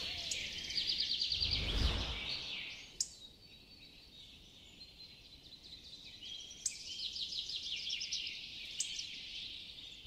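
Birds chirping, with rapid trilling runs of notes about a second in and again near the end. A soft whoosh comes about two seconds in.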